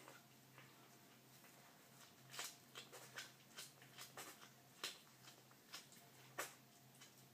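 Cat chewing a freshly caught bird: faint, irregular wet clicks and crunches at an uneven pace, starting about two seconds in.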